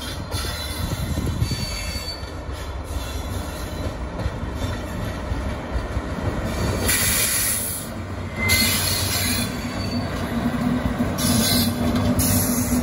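A WCAM-2 electric locomotive pulling a passenger train away from a station and passing close by: a continuous rumble of wheels on rail. Brief high-pitched bursts come about halfway through and again near the end, and a steady hum comes in as the locomotive goes past.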